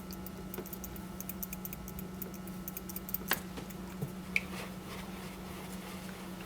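Small, light clicks and taps of a paintbrush working watercolour paint on a palette, with one sharper click a little over three seconds in, over a steady low hum.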